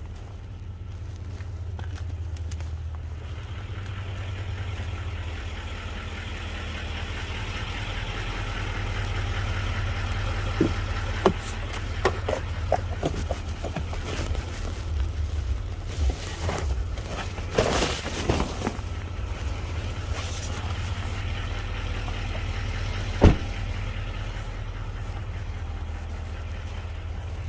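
Vehicle engine idling with a steady low hum, heard from in or beside the vehicle, with small clicks and rustling of things being handled in the middle and one sharp knock about two thirds of the way through.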